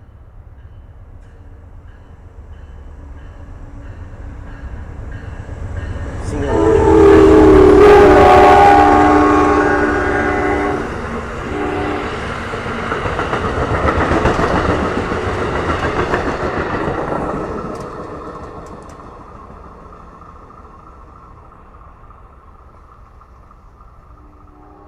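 Amtrak passenger train with a single locomotive passing close by. Its horn sounds a long blast about six seconds in, breaks briefly and sounds again shortly, then the rumble of the train passing swells and fades away.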